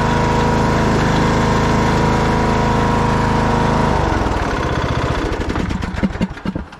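Lawn tractor engine running steadily, then shut off about four seconds in, slowing through a few spaced, sputtering strokes before it stops near the end.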